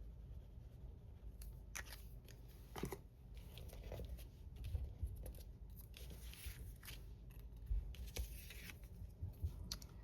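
Faint rustling and light clicks of cardstock and paper being handled and glued for a handmade card, in short scattered bursts.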